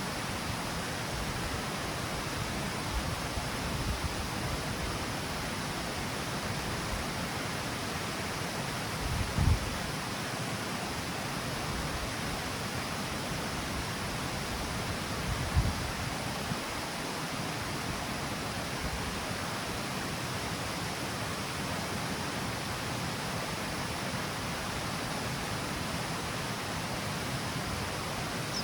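Water pouring over the steps of a river cascade, a steady even rush. Two brief low thuds break in, one about a third of the way through and one just past halfway.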